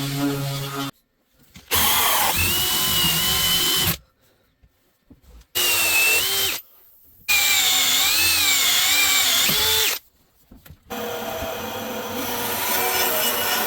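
Power drill running in short bursts, its motor whine steady in some and dipping and wavering in pitch in others as it bites into the wood, with abrupt silences between the bursts.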